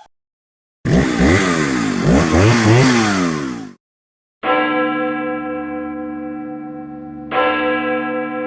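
A motor revved hard up and down several times for about three seconds, then cut off; then a large bell tolls twice, about three seconds apart, each stroke ringing on and slowly fading.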